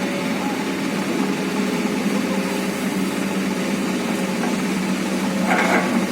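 Excavator's diesel engine running steadily at an even pitch, with a short burst of noise near the end.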